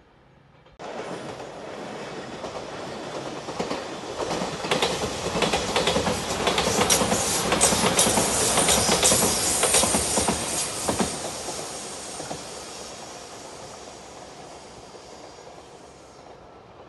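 A JR Shikoku Anpanman-painted passenger train running past close by, its wheels clacking over the rail joints. The sound comes in suddenly about a second in, is loudest around the middle, and fades away toward the end.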